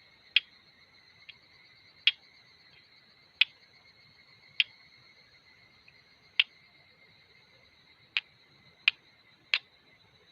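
Flint and steel being struck together: eight sharp, irregularly spaced clicks, over a steady high-pitched drone.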